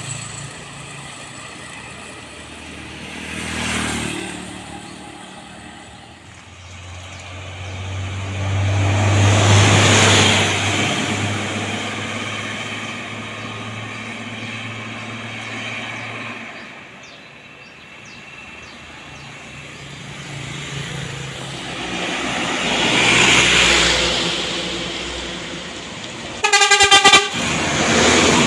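Heavy vehicles, buses and trucks, passing one after another on the road, engine and tyre noise swelling and fading with each pass; the loudest pass comes about ten seconds in with a steady low engine hum. Near the end, a short, loud horn blast.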